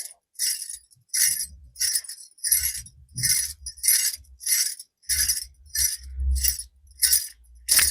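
Bangles shaken by a Foley artist in a run of jingling strokes, about two a second, with soft low thuds from the handling.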